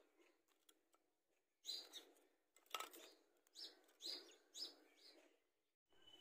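Faint bird chirps: a handful of short calls, about half a second to a second apart, starting a little under two seconds in.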